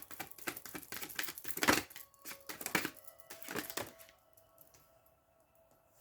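Tarot cards being shuffled by hand, a rapid run of crisp clicks and flicks for about four seconds before it stops. Faint background music with held tones goes on underneath.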